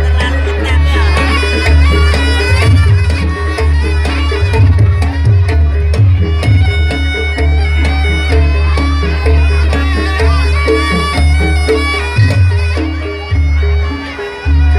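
Jaranan Buto ensemble music: a reed shawm plays a wavering melody over repeating pitched percussion notes and a heavy, pulsing deep bass beat.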